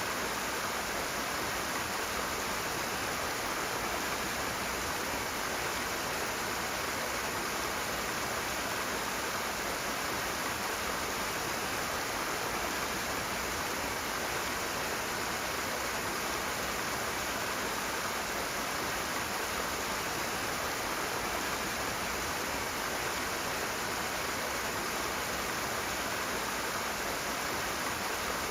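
Steady rush of fast-flowing water, even and unbroken, with no single splashes standing out.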